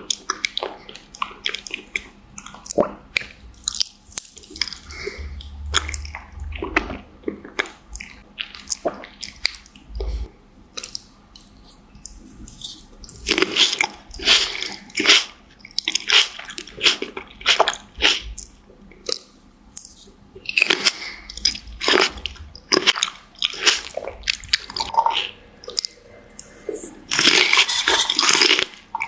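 Close-miked eating of fruit: crisp bites and crunching mixed with wet, squishy chewing, coming in dense runs of crackles.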